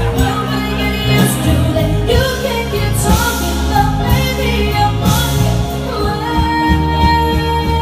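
A live band playing a pop song with singing over a steady bass line.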